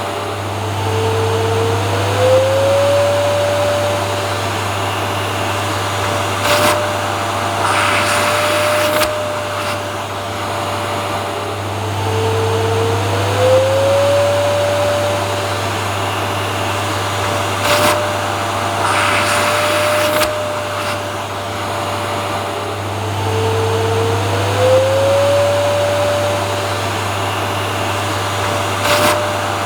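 Vacuum cleaner running continuously: a steady low hum under an even rushing hiss. About every eleven seconds its whine glides up in pitch and settles, with brief hissy surges in between, repeating as a loop.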